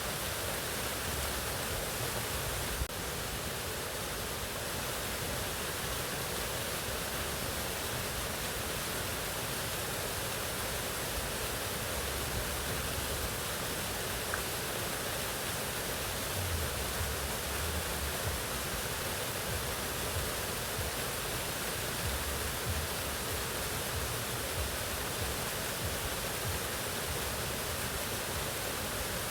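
Waterfall rushing steadily: an unbroken full-range hiss of falling water.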